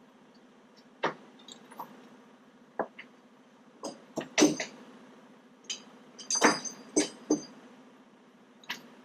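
Irregular sharp metallic clinks and clanks, about a dozen, with two clusters of louder ones in the middle, over a steady low hum.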